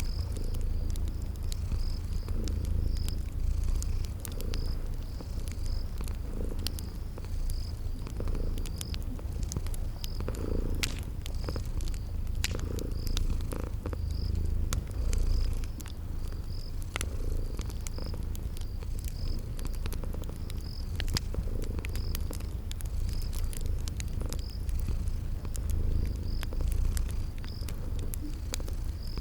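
Domestic cat purring steadily, with a cricket chirping at an even pace about once a second and the sharp snaps of a crackling wood fire scattered throughout.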